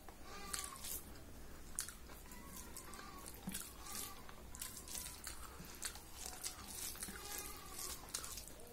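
Close-up eating sounds: wet chewing and lip-smacking with many short sharp mouth clicks, as rice and dal are eaten by hand. Fingers mash and scoop the rice against a steel plate.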